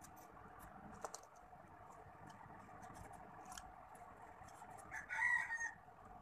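A short bird call about five seconds in, with a few pitched notes under a second long, over a faint steady hiss and scattered light ticks.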